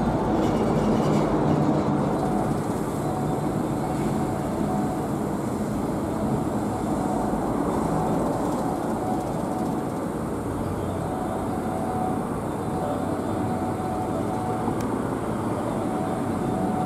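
Electric commuter train at the station, a steady rumble of wheels on rail with a faint tone that comes and goes.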